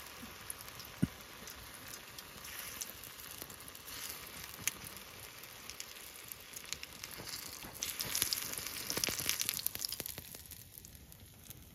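Chicken frying in hot oil: a steady sizzle with many small pops, growing louder about eight seconds in and easing near the end.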